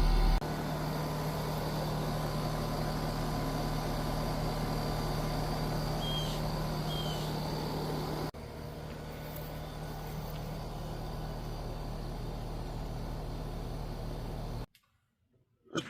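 Steady mechanical hum of running machinery with a strong low tone, broken by abrupt changes in level twice and dropping out briefly near the end.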